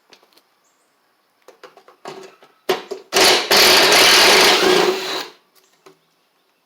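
A handheld power tool running for about two seconds as it backs a bolt out of the mower deck's spindle cover, after a few light clinks of the tool being set on the bolt.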